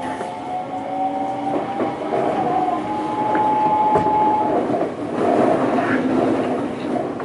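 Odakyu 2000 series electric train running, a train with a flat spot on a wheel. The motor whine rises slowly in pitch and cuts out about four and a half seconds in. After that, wheel and rail rumble with scattered knocks.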